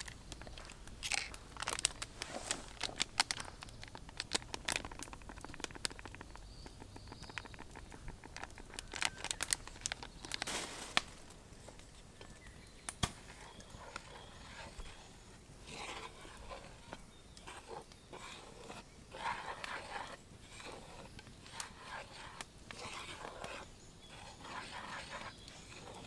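Irregular crisp cracks and crunches, many in quick succession for about the first ten seconds, then softer scattered rustling.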